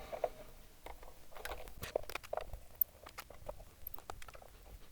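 Scattered light clicks and taps at an irregular pace: small parts and tools being handled on a workbench.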